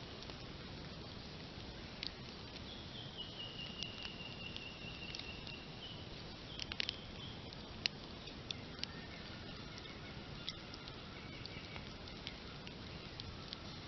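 Open wood campfire burning, with irregular sharp crackles and pops over a steady low rush of flame. A thin high whistle sounds for a few seconds near the start, and fainter high tones come later.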